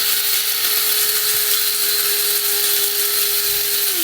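Small electric coffee grinder running steadily as it grinds a scoop of coffee beans for espresso: a steady motor hum over a bright grinding hiss. Right at the end the motor is switched off and its pitch starts to fall as it winds down.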